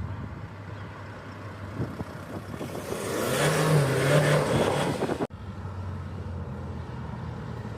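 Car engines running. About three seconds in, one car's engine grows much louder with a wavering note, then the sound cuts off suddenly before the steady engine hum returns.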